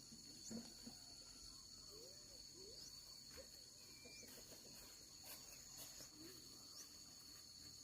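Faint, steady high-pitched insect drone, with a few soft, short chirps scattered through it.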